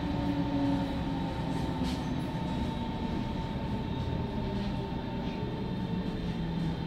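Berlin S-Bahn electric train running slowly through a station, heard from inside the carriage: a steady rumble of wheels on track with an even electric motor whine.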